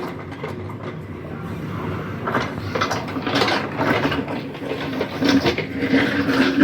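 JCB backhoe loader's diesel engine running under load while digging up a road, with irregular clanks and scrapes throughout.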